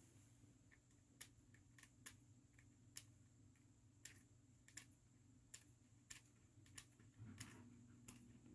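Scissors snipping through the lace of a frontal wig: a dozen or so faint, sharp snips at irregular intervals.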